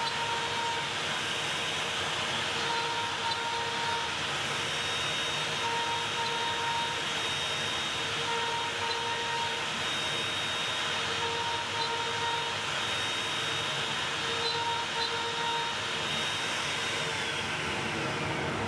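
Steady machine noise from a CNC machine's Makita trim router spinning, with a high whine that slides down in pitch near the end.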